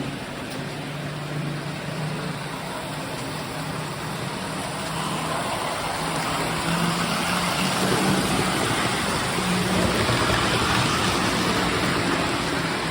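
Postwar Lionel O-gauge electric trains running on three-rail tinplate track: a steady motor hum under the rumble and rush of wheels. It grows louder about six seconds in as a train draws nearer.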